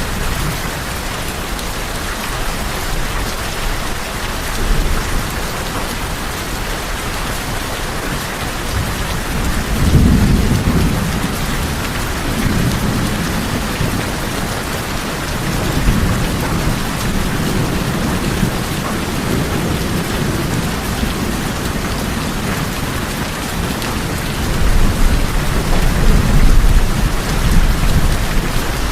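Steady heavy rain falling on a tin roof, with low thunder rumbles rolling in about ten seconds in and again, louder, near the end.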